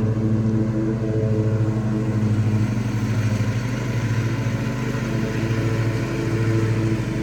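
Engine running steadily at a constant speed, an even hum without revving.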